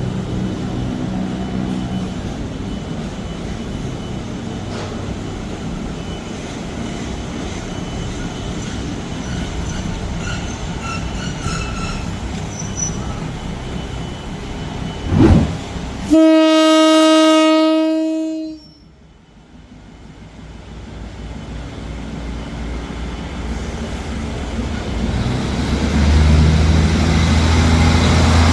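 Train running with a steady rumble, then one loud train horn blast of about two and a half seconds that cuts off sharply. Near the end, engine and rail noise build up again.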